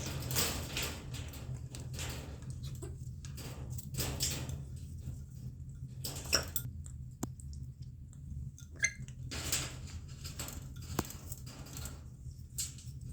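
Pet parrot eating: scattered rustling and sharp clicks and clinks of feeding at a food dish, with a few brief high squeaks about nine seconds in, over a steady low hum.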